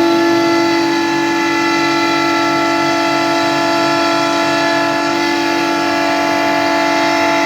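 CNC router spindle running at a constant high speed while milling 15 mm plywood: a steady, unchanging high whine over a haze of cutting noise.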